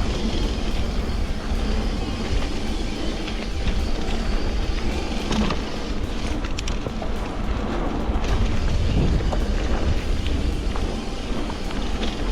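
Steady wind rush and low rumble on the microphone from riding a bike, with a few light clicks about five to seven seconds in.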